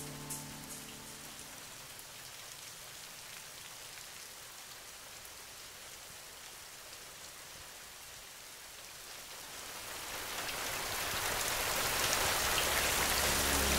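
Steady rain falling, a soft even hiss that swells much louder about ten seconds in. The last notes of piano music fade out at the very start.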